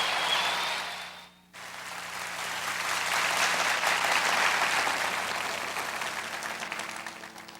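Concert audience applauding at the end of a song. The applause drops out abruptly about a second and a half in, then swells again and slowly fades away.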